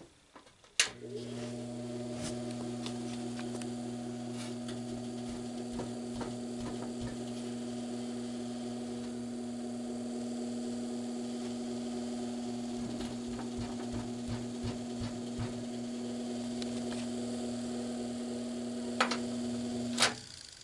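General Electric box fan's shaded-pole motor, running without its blade, starts with a click about a second in and runs with a steady electrical hum, then stops with a couple of clicks near the end. It is running after a loose shaded-pole coil, the cause of its awful buzzing, was sprayed to fix it in place.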